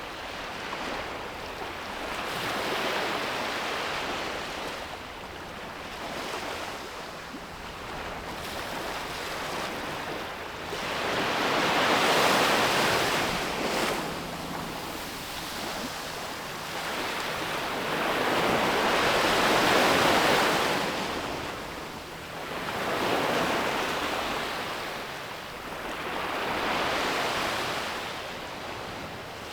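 Sea waves breaking on a beach, the surf swelling and fading in slow surges several seconds apart, the loudest about 12 and 20 seconds in.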